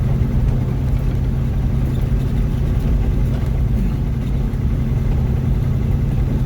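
Steady in-cab drone of a Mack truck's engine and road noise while cruising.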